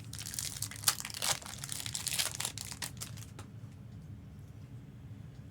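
Foil Pokémon booster pack wrapper crinkling as it is handled and opened, with a few sharper crackles, dying away after about three and a half seconds.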